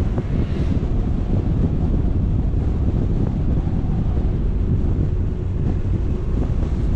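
Steady wind rush buffeting the microphone, heavy in the low end, as from a camera moving at speed.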